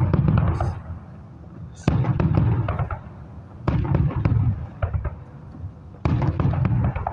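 Aerial firework shells bursting, four loud booms about two seconds apart, each followed by about a second of crackle and rumble.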